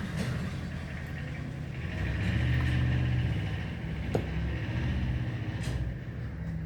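Steady low machine hum, with one sharp click about four seconds in.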